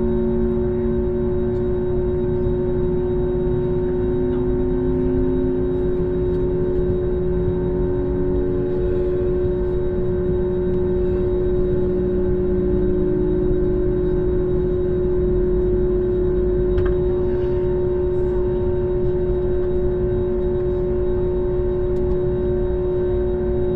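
Airbus A321neo's Pratt & Whitney geared turbofan engines running, heard from inside the cabin: a steady low hum with a held mid-pitched whine. A fainter tone slowly rises in pitch over several seconds.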